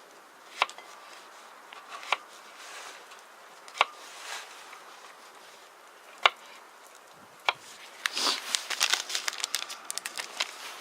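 Knife slicing garlic into rings on a cutting board: five sharp clicks roughly a second and a half apart. From about eight seconds in, a dense run of crinkling and rustling takes over.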